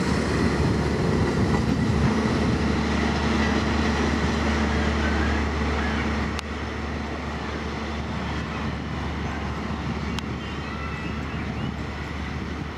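A train running past on the track, its rolling noise dropping off suddenly about six seconds in as it goes by, leaving a lower steady rumble.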